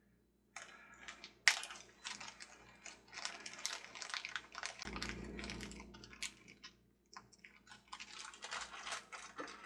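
Hands rummaging through a stash of small spare parts: a quick jumble of clicks, rattles and rustles, with one sharp click about a second and a half in and a short pause near the three-quarter mark.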